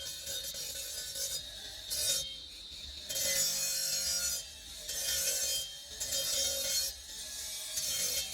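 Hand-abrading strokes on a marble carving: repeated scraping, rasping back-and-forth strokes, each lasting about a second, with short pauses between them.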